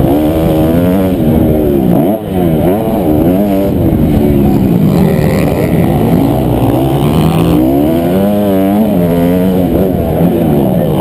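Honda CRF250R four-stroke single-cylinder motocross engine under hard throttle, its pitch rising and falling again and again as the throttle is opened and closed. The level drops briefly about two seconds in.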